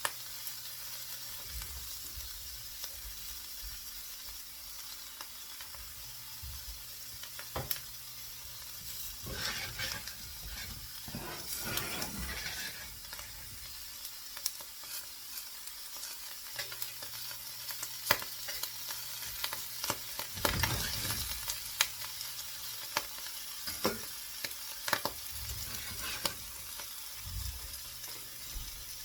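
Food frying in a pan with a steady sizzle. A utensil clicks and scrapes against the pan as the food is stirred and turned, in two busier spells about a third and two thirds of the way through.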